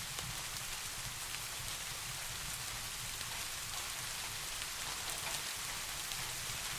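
Steady rain falling, an even hiss with scattered drops ticking on a surface, over a low constant rumble.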